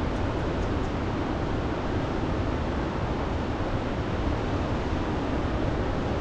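Steady rushing of a river in heavy flood.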